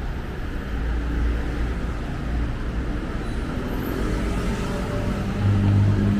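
Busy city street traffic: cars and other motor vehicles running past with a steady rumble. About five seconds in, a deeper engine hum from a nearby vehicle comes in louder.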